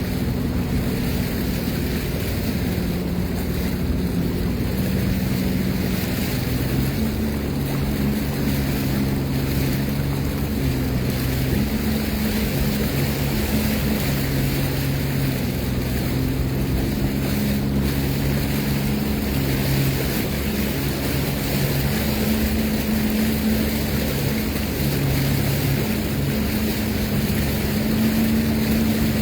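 Sea-Doo Fish Pro personal watercraft engine running under way, its pitch stepping up and down with the throttle, with rushing water and wind noise on the microphone.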